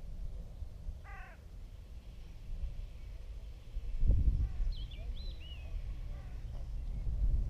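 Birds calling: one harsh call about a second in and a few quick high chirps around five seconds, over a low rumble on the microphone that peaks with a thump about four seconds in.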